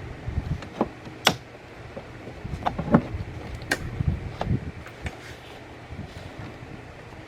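Scattered clicks and knocks of plastic cowl panel pieces being handled and pushed onto their clips under the windshield, with a sharp snap about a second in and another near four seconds.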